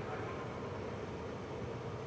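Steady low hum and hiss of a car's cabin with the car at a standstill.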